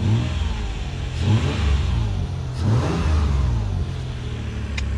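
Toyota 4Runner engine revved twice, its pitch climbing and falling back each time.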